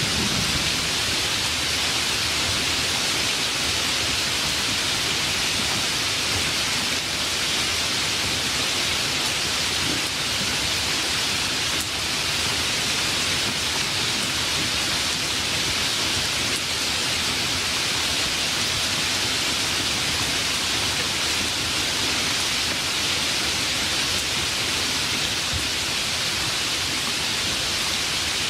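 Steady rain falling, an even hiss with no change in level. A low thunder rumble dies away just at the start.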